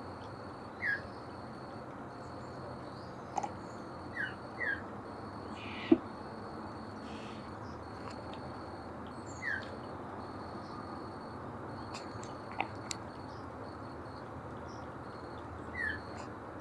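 Northern mockingbird giving an unusual call: short, downward-sliding notes, one every few seconds and two close together, over steady insect trilling. A single sharp click about six seconds in.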